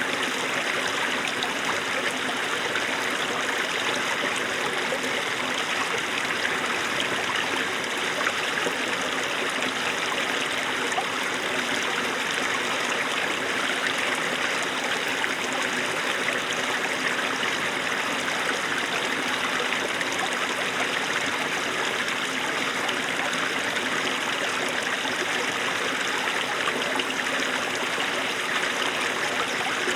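Small snowmelt stream running steadily over stones, an even babble of flowing and trickling water.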